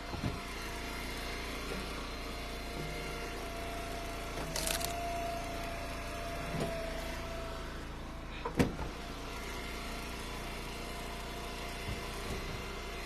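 Engine of a wood splitter running steadily, with a higher whine holding for a couple of seconds around the middle while it works a round. Two sharp knocks, one about five seconds in and a louder one near nine seconds, stand out.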